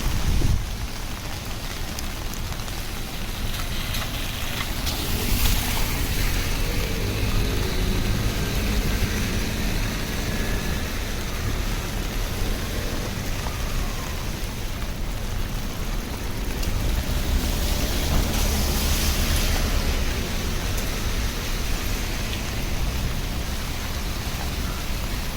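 Steady rain on a city street, with a couple of vehicles passing over the wet road, about five seconds in and again near the end.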